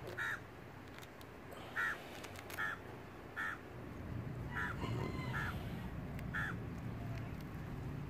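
A bird calling in the background: seven short calls, roughly one a second, over a low rumble that grows louder from about halfway.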